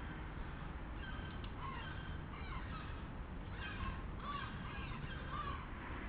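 Wild birds calling: a run of short chirping notes starting about a second in and stopping shortly before the end, over a steady low rumble.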